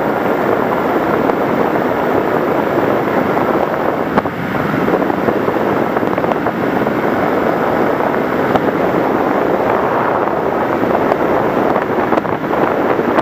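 Steady rushing wind noise on the onboard camera microphone of a flying FPV model plane, with a short dip about four seconds in.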